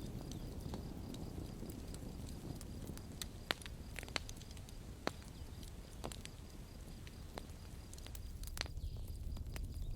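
Campfire burning: wood crackling with sharp pops scattered every second or so over a low steady rumble of flames.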